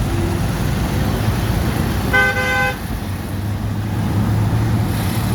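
A vehicle horn honks once, briefly, about two seconds in, over a steady low rumble of engines and traffic.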